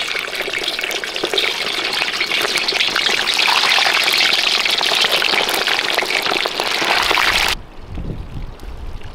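A whole quail sizzling and crackling in hot fat in a kazan over a wood fire, a dense steady frying hiss. It cuts off suddenly about seven and a half seconds in, leaving wind rumble on the microphone.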